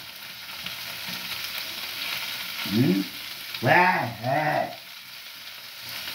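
Pieces of liver frying in a pan, a steady sizzle, as they are turned. A man's voice sounds briefly twice around the middle.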